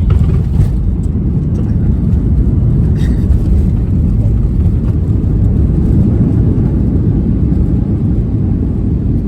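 Inside the cabin of a Boeing 737-800 on the landing roll: a sudden jump to a loud, steady heavy rumble as the engines run in reverse thrust, mixed with the noise of the wheels on the runway.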